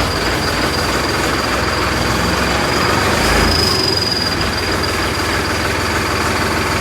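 Tractor diesel engine running steadily, with a thin high whine held above it.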